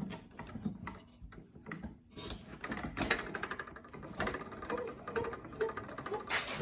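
Blade-height handwheel of a RYOBI 10-inch table saw being cranked, giving a fast, even run of small mechanical clicks from about two seconds in. A few sharper knocks fall among the clicks.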